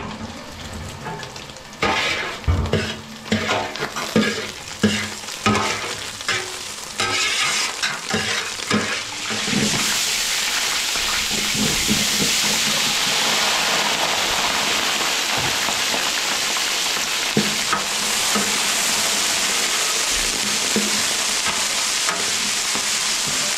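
Chicken pieces being stirred in oil in a large metal pot, the spoon scraping and knocking against the pot in irregular strokes. About ten seconds in, chopped onions go into the hot fat and a loud, steady sizzle takes over while the stirring goes on.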